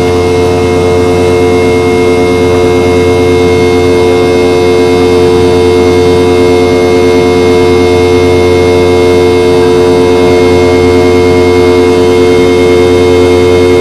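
Boeing 717-200's rear-mounted Rolls-Royce BR715 turbofan engines heard from inside the cabin: a loud, steady drone with a whine of several held tones over a low rumble, slowly growing louder.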